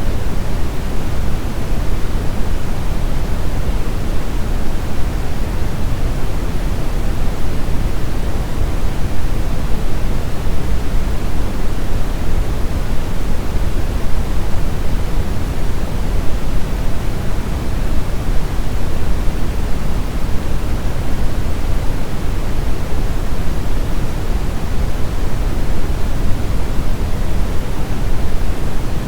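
Brown noise: a steady, even rushing hiss, heaviest in the low end and dull at the top, with no changes.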